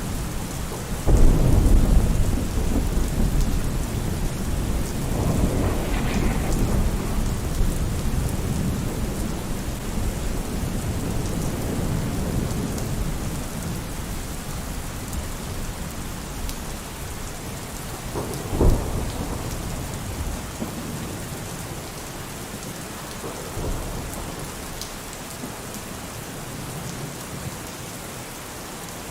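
Steady heavy rain with thunder: a loud low rumble of thunder breaks about a second in and rolls on for several seconds, another peal swells a few seconds later, and a sharper clap comes past the middle, with a fainter rumble after it.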